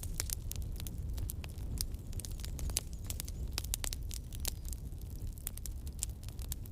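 Campfire crackling: wood burning with frequent, irregular sharp snaps and pops over a steady low rumble.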